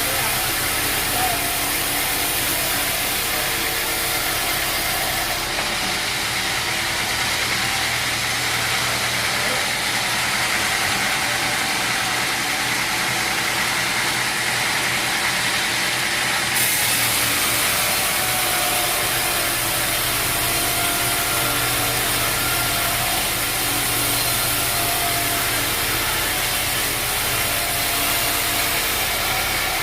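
Sawmill machinery running steadily: a continuous engine-like hum under a steady noisy hiss.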